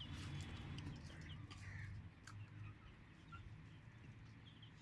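Young chickens faintly peeping and clucking, with scattered short chirps.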